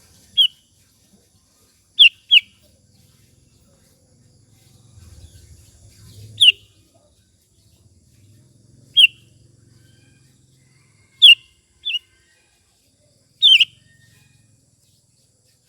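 Sooty-headed bulbul (kutilang) giving short, sharp, downward-sweeping call notes, singly or in quick pairs, about every two seconds.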